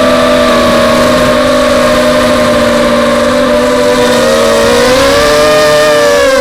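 Brushless motors and propellers of a 250-size FPV racing quadcopter whining in flight. Several close tones run together, then drift apart and cross over the last couple of seconds as the motors change speed.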